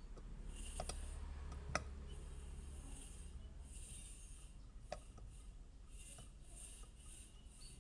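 Faint clicks and light rubbing of metal engine parts being handled and fitted by hand, with a sharper click a little under two seconds in and another about five seconds in.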